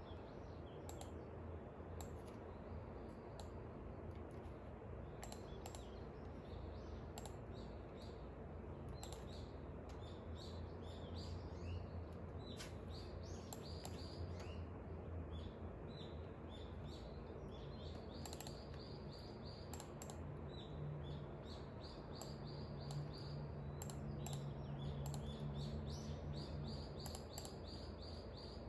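Songbirds chirping, with runs of short, quickly repeated high notes that come more often in the second half, over a steady low rumble. Scattered sharp clicks sound throughout.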